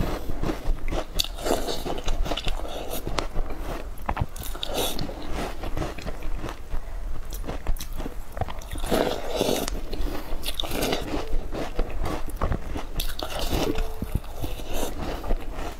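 Close-miked biting and chewing of milk-dunked Chinese taosu shortbread cookies: an irregular run of crunches and chews.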